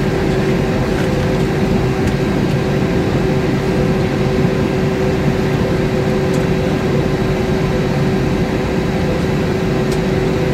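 Steady cabin noise inside an Airbus A320-232 airliner: a constant drone of engines and ventilation with a couple of steady hum tones, unchanging throughout.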